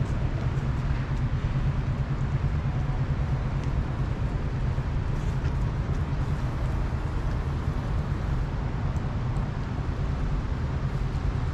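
Steady low rumble of outdoor background noise, with a few faint ticks over it.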